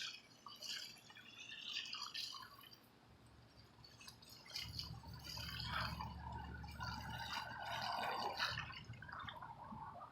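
Water dripping and splashing off the fins of an air conditioner's outdoor condenser unit as it is rinsed with a gently running stream of water.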